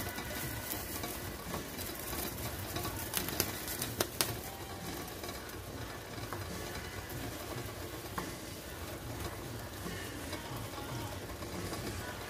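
Chicken, mushrooms and cherry tomatoes sizzling as they sear in an enamelled pot on high heat, stirred with a wooden spoon. A few sharp knocks of the spoon against the pot come about three to four seconds in.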